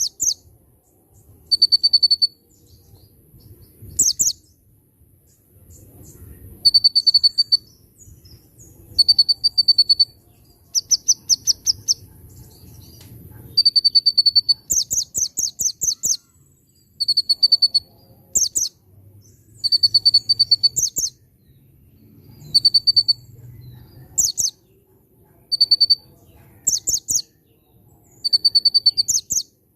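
Olive-backed sunbird (kolibri ninja) singing: short high phrases repeated every second or two, each a brief steady whistle or a rapid run of sharp chattering notes. A faint thin high tone runs steadily underneath.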